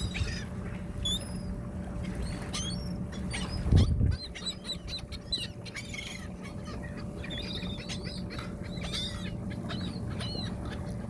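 A crowd of ducks and other birds calling, many short overlapping chirps and calls, over a steady low hum. There is a dull thump about four seconds in.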